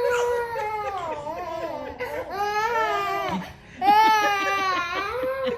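Young child crying in long, high-pitched wails, about four of them, with a brief catch for breath just past three and a half seconds before the loudest wail.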